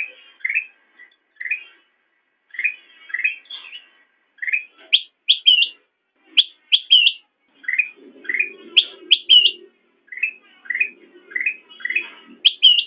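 Kutilang emas bulbul singing: a string of short chirps, about two a second, broken by sharper, higher rising notes in quick pairs and triplets.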